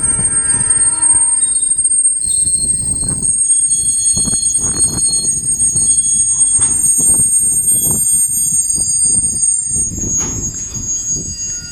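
Train wheels squealing loudly against the rails in a high, steady pitch, over the rumble and irregular clunks of railcars rolling along the track. The squeal fades about ten seconds in.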